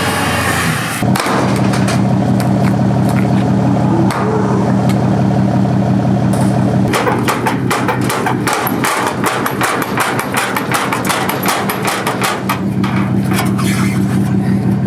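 Car engine running at a steady idle. From about seven seconds in, a rapid, irregular clatter of sharp knocks plays over it.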